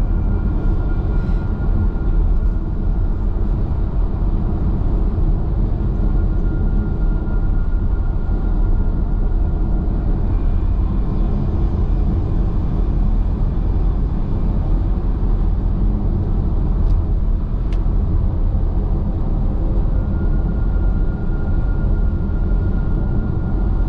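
Steady road and tyre rumble inside a car's cabin at highway speed, with a faint high whine that fades in and out.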